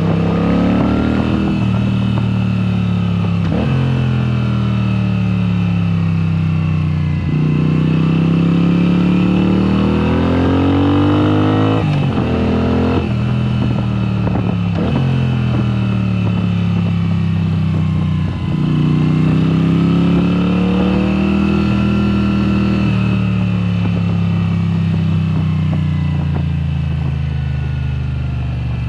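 2022 Moto Guzzi V7 Special's air-cooled V-twin running through Mistral exhausts with the dB killers removed. The engine note rises and falls again and again as it pulls and eases off, with several brief breaks in the sound, like gear changes.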